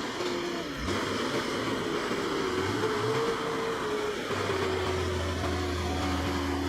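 Heavy vehicle engine running with a steady whine. The sound changes abruptly about a second in, and again past the middle, where a low steady hum sets in.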